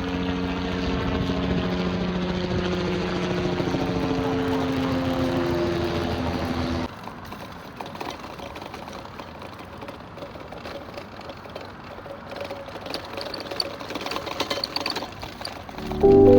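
An engine running, its tones dropping in pitch as it passes, then cutting off abruptly about seven seconds in; after that, a quieter outdoor background with faint ticks.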